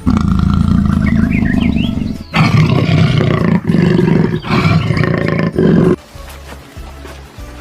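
A lion roaring: a long low roar, then a run of shorter roars with brief breaks, dropping much quieter about six seconds in.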